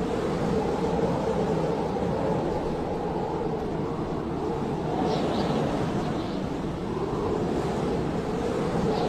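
Howling blizzard wind: a steady, dense storm-wind roar that swells and eases slightly, with faint brief high whistles about halfway through.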